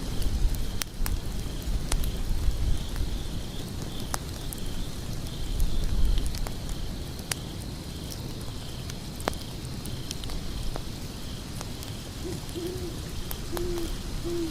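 Wood fire burning with a low rumble and scattered sharp crackles and pops, under a faint, evenly repeating high chirping. Near the end an owl hoots several short notes.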